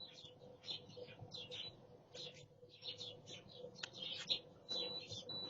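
Small birds chirping, short high chirps several times a second, over a faint steady hum. A brief high steady beep sounds near the end.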